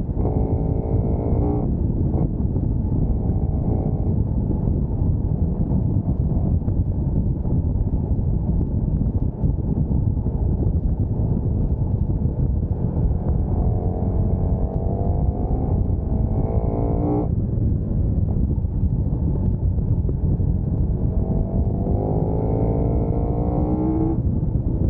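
Sport motorcycle riding at speed, with heavy wind rumble on the microphone. Three times the engine note climbs as the bike accelerates, then drops off suddenly as the rider shifts or rolls off the throttle: briefly at the start, around the middle to late part, and near the end.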